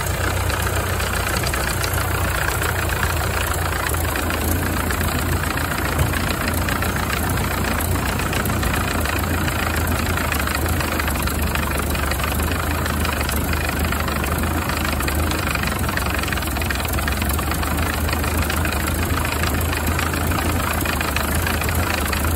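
Ford Model A four-cylinder flathead engine idling steadily while its carburetor idle mixture is being adjusted with a screwdriver.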